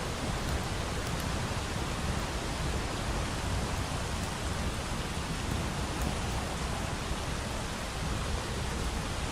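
Steady rain, a dense even hiss over a steady low rumble, with a few faint crackles from a fireplace.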